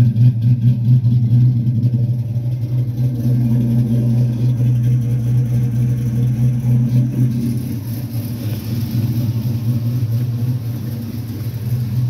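Chevrolet LQ4 6.0-litre V8 fitted with a stage 1.5 camshaft, running steadily at idle, a little quieter in the second half.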